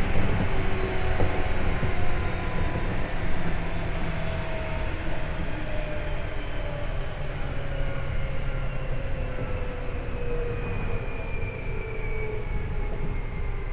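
Seibu 2000-series electric commuter train running on the rails, with a steady wheel-and-track rumble. Its motor whine falls slowly in pitch as the train loses speed.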